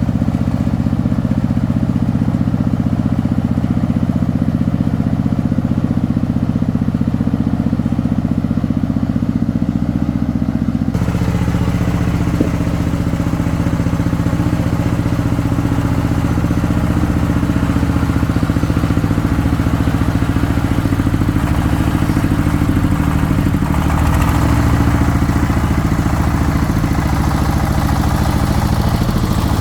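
Single-cylinder diesel engine of a công nông farm vehicle running steadily. About eleven seconds in, the sound changes abruptly and more clatter and hiss join the engine.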